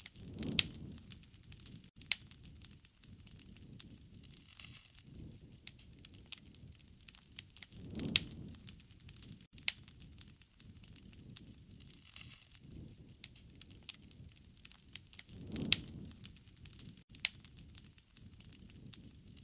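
Wood fire crackling, with frequent sharp pops and snaps. A low rush of flames swells up three times, evenly spaced.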